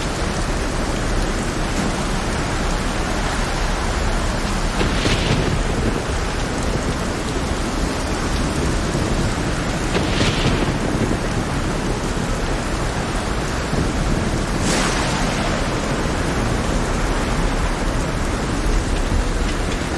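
Heavy rain pouring steadily over a rough sea, with a constant low rumble beneath it. Three brief hissing surges come about five seconds apart.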